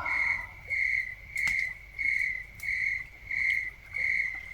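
Cricket chirping steadily, about two chirps a second, with a few faint clicks in the background.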